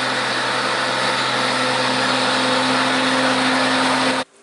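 Steady, loud engine drone with a constant hum and hiss, unchanging in pitch, cut off suddenly near the end.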